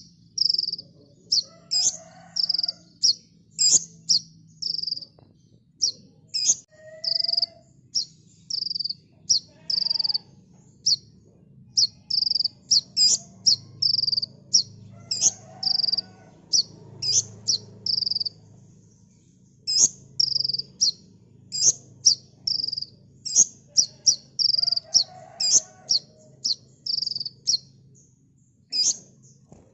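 Kolibri ninja sunbird singing a fast run of short, sharp high chirps, several a second, with a brief pause about two-thirds of the way through. A faint low hum and a few softer, lower calls lie underneath.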